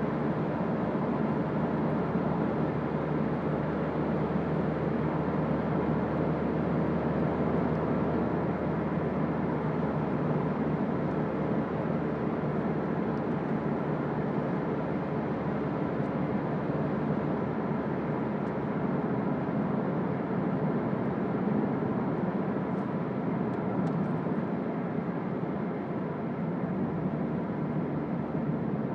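Steady running noise of a Toyota Auris with a 1.4 L four-cylinder turbodiesel (D-4D) driving at an even pace: a constant tyre and road rush with a faint drone from the engine underneath.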